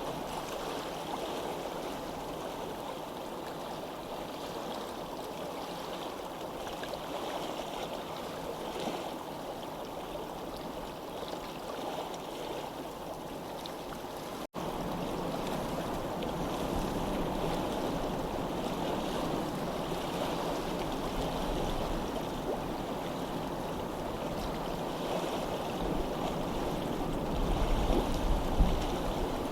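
Steady rush of running water, broken by a split-second dropout about halfway through. A low rumble swells near the end.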